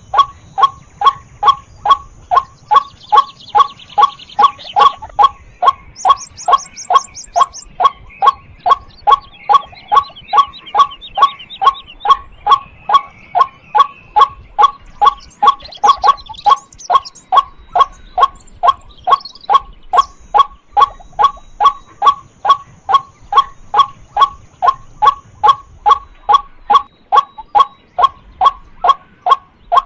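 White-breasted waterhen calling a monotonous, repeated 'kwak' note, about two a second. Faint chirps of other birds and a thin high insect whine sit behind it.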